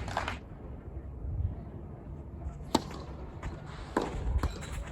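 Tennis ball being struck and bouncing on court: two sharp, clear impacts about a second and a quarter apart, followed by a few fainter taps, over a low background rumble.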